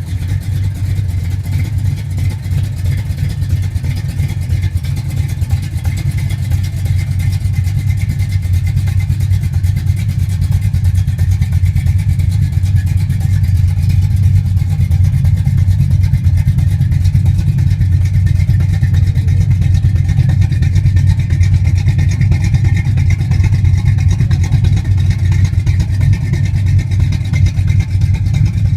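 Car engine running steadily with a deep, even rumble that slowly grows louder.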